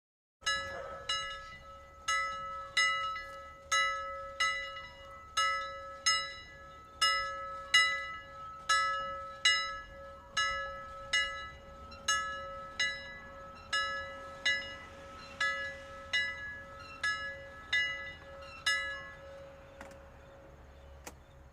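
A bell-like chime sounding a run of struck, ringing notes, about two a second, over a steady held tone; the notes die away just before the end.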